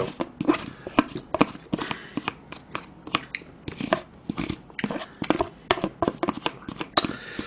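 Close-miked eating sounds of a man chewing spoonfuls of rice soaked in spicy beef soup (yukgaejang): irregular mouth clicks and smacks, several to the second.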